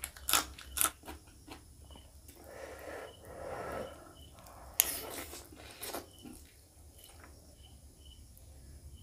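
Close-up eating sounds: crisp crunching bites into a raw green chilli near the start, then wet chewing, and a loud sharp bite about five seconds in as teeth tear into a curry-coated chicken leg, followed by quieter chewing.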